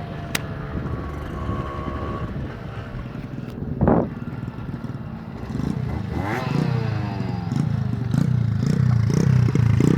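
Small motorcycle engine running, with a sharp click about half a second in and a brief loud knock near the middle, then revving up from about six seconds in and running louder after that.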